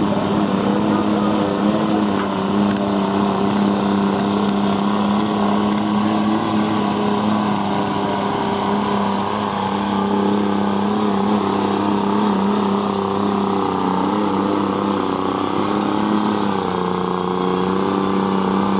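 Garden tractor's small engine running steadily at one speed, its pitch dropping slightly about three-quarters of the way through.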